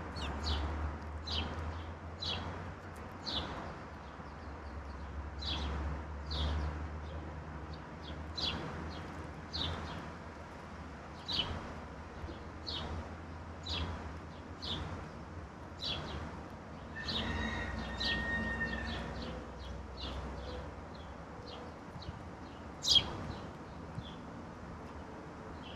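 Wild songbirds outdoors, one repeating a short, sharp, high chip call about once a second, with a longer steady pitched sound about two-thirds of the way through. A single loud sharp click comes near the end, over a low steady rumble.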